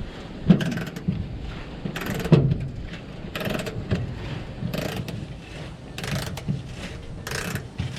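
Hand ratchet wrench clicking in short, irregular bursts, about one stroke a second, as a bolt on an old truck's front end is turned out once it has been broken loose.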